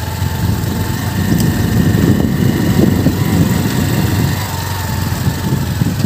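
Small motorbike engine running steadily, with a rumbling, uneven low end.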